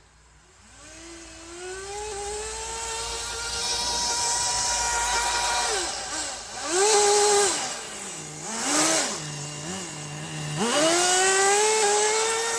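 Nitro engine of a Kyosho Blizzard RC snow vehicle revving under load. Its pitch climbs over the first few seconds and holds high, drops, blips up again around seven seconds, falls to a low idle with short blips, then climbs again near the end.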